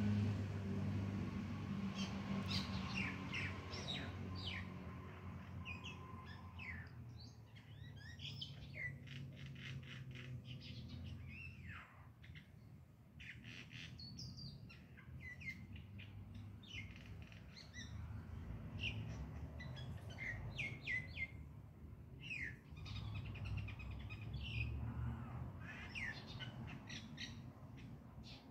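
Birds chirping, many short high calls scattered throughout, over a steady low hum.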